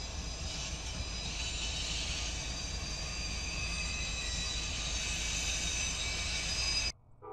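Freight train passing with diesel locomotives leading: a steady low rumble of engines and wheels on rail, with a set of steady high tones over it. It cuts off abruptly near the end.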